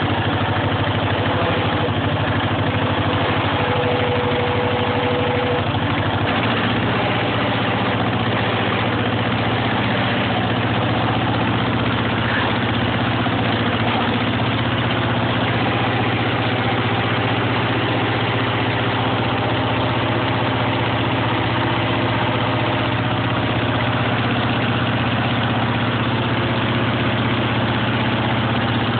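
1953 John Deere 40C crawler's two-cylinder engine running steadily after a cold start, exhausting through a Cherry Bomb muffler. Its note shifts about six seconds in, then holds steady.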